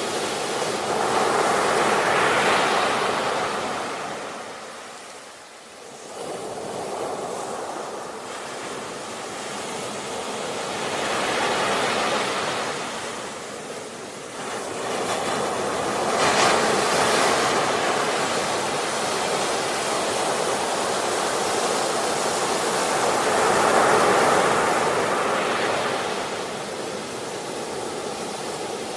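Sea waves breaking and washing in, swelling in four long surges with quieter lulls between them.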